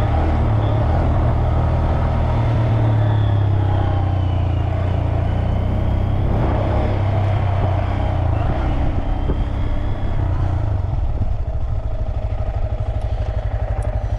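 Motorcycle engine running as the bike is ridden at low speed. About eleven seconds in, the steady engine note drops to a pulsing, throbbing idle.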